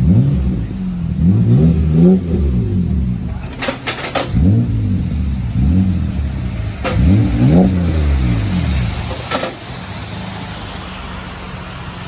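Third-generation Mitsubishi Eclipse revving several times through a GReddy 2.5-inch titanium muffler, then settling back to idle near the end.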